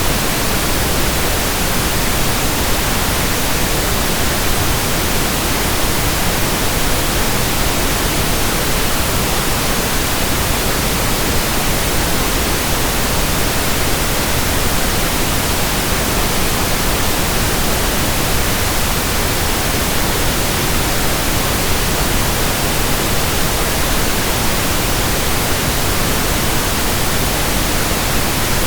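Steady synthetic pink noise: an even, unchanging hiss across all pitches, with no breaks or events.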